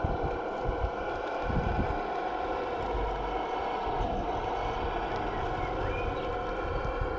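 Steady mechanical whine of a radio-controlled scale construction model running, with a few low knocks and rumbles in the first two seconds.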